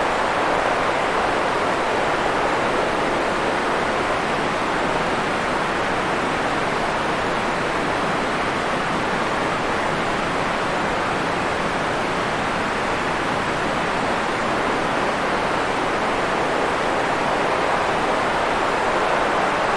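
Steady, unchanging white-noise hiss for sleep, strongest in the middle of the range and softer in the deep lows and the highest highs, with no breaks or separate sounds.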